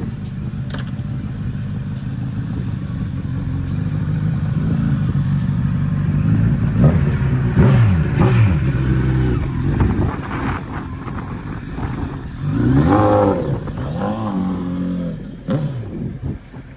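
Yamaha R6 sportbike's inline-four engine running and being revved several times, its pitch rising and falling, with the biggest revs past the middle.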